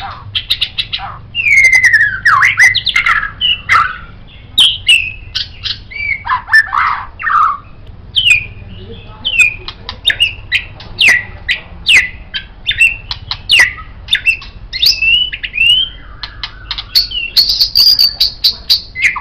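White-rumped shama (murai batu) singing a long, varied song: sweeping slurred whistles in the first half, then a fast series of short, sharp notes and high buzzy phrases near the end.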